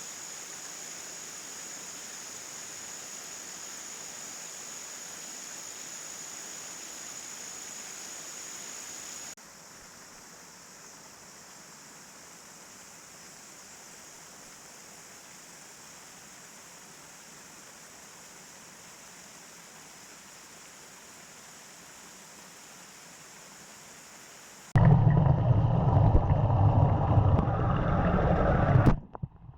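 Steady rush of falling and running water from a waterfall, stepping abruptly quieter about nine seconds in. Near the end, for about four seconds, a much louder, deeper rush of water close to the microphone.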